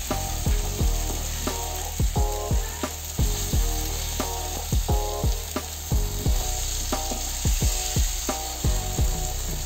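Beef sausages with tomato, onion and green pepper sizzling in a ridged grill pan, with a silicone spoon scooping through them. Background music with a regular beat plays over the sizzle.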